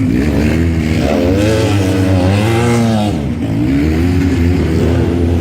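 Pre-1965 scramble sidecar outfits' motorcycle engines revving hard through mud holes, the pitch rising and falling over and over as the throttle is opened and shut, with a brief easing about three seconds in.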